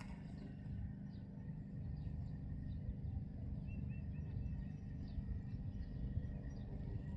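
Faint bird chirps, short repeated notes with a brief quick series about four seconds in, over a steady low outdoor rumble.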